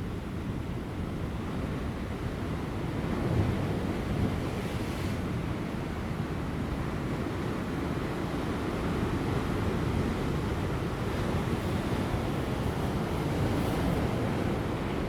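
Large ocean waves breaking on offshore rocks: a continuous low wash of surf that swells louder a few times, with wind on the microphone.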